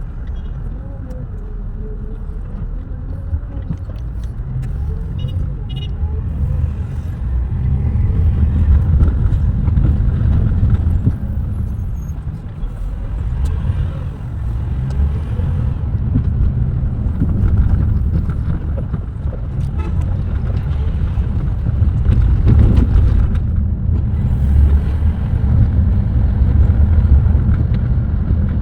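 Heavy bus engine and road noise while driving at speed, a deep rumble that swells and eases over the stretch.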